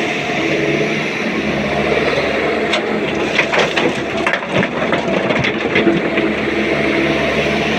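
Heavy diesel engine of a SANY excavator running steadily under load. From about three to six seconds in there is a run of sharp knocks and clatters, like stone being loaded into the steel body of a dump truck.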